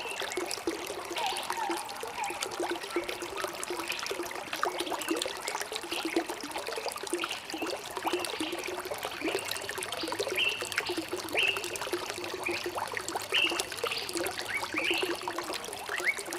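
Small stream trickling and gurgling steadily, with short bird chirps now and then, more of them in the second half.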